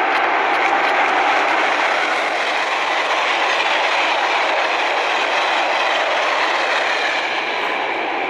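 An SNCF electric locomotive hauling a rake of double-deck passenger carriages passes close by: steady rolling noise of wheels on rails, loudest about a second in and easing slightly as the train goes away.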